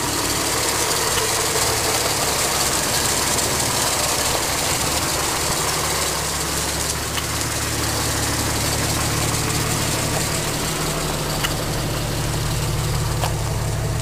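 A Jeep's engine idling steadily, heard low beside the body and near the tailpipe.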